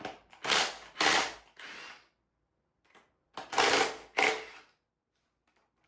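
A hand-held power tool, driving fasteners loose in short trigger bursts: two bursts about half a second apart, a pause, then two more, with a few weaker ones in between.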